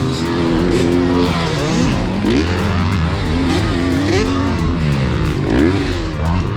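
Several motocross dirt bike engines on the track, their pitch rising and falling over and over as riders rev, shift and ease off through the course.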